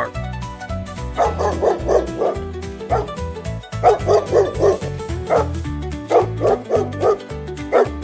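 Dog barking repeatedly, in quick runs of three or four barks with single barks between, over background music with a steady beat.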